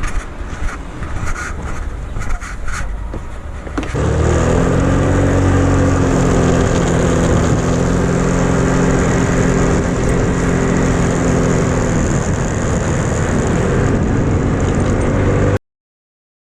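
A motor vehicle running steadily with a low engine hum, starting suddenly about four seconds in after quieter noise with scattered clicks, and cutting off abruptly near the end.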